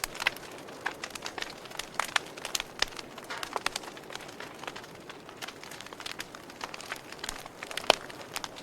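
Campfire wood crackling, with irregular sharp pops over a steady low hiss and one louder pop near the end.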